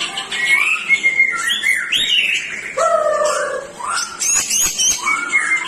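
White-rumped shama (murai batu) singing in full voice: a continuous, rapid run of varied whistled phrases, many gliding up or down, mixed with sharper high notes.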